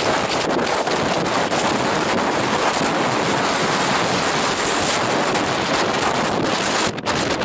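Gale-force wind buffeting the microphone: a loud, dense rush of noise that drops out briefly near the end.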